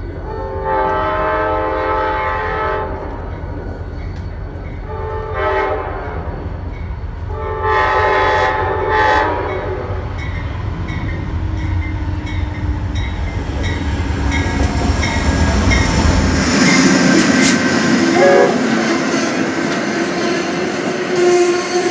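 Amtrak GE Genesis P42 diesel locomotive sounding its air horn for its approach: a long blast, then a short one, then two more in the first ten seconds. The train then rolls in with a rising rumble of wheels on rail and clicks from the rail joints, and a steady squeal near the end as it slows to a stop at the platform.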